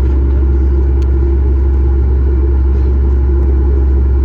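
Steady low rumble inside the passenger cabin of a Boeing 737 MAX 8 on the ground before takeoff: the aircraft's air-conditioning and engine noise, even and unchanging.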